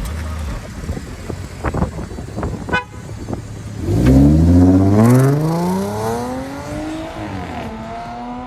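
Supercharged 3.0-litre V6 of a tuned Audi A6 accelerating away hard. After a few seconds of low, unsteady engine sound, the engine note and supercharger whine climb steadily in pitch from about four seconds in. The sound is loudest just after it starts to climb and eases near the end.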